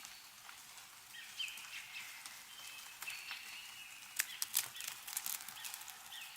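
Small birds calling over and over in short chirping notes. A quick cluster of sharp drips and ticks from melting snow falling off the trees comes about four seconds in and is the loudest sound.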